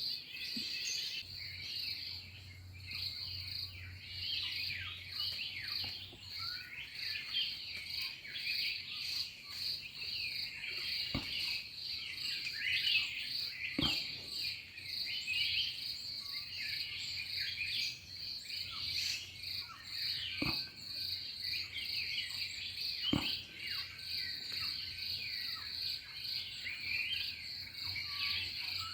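Many birds chirping and calling together over a steady, high insect drone, with four sharp, faint clicks spread through the stretch.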